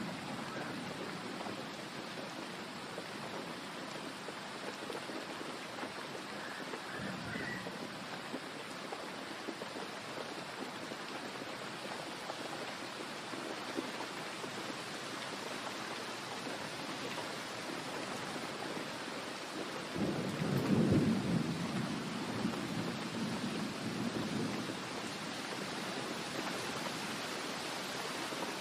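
Thunderstorm: steady rain falling, with a low roll of thunder that swells about two-thirds of the way through and fades over a few seconds.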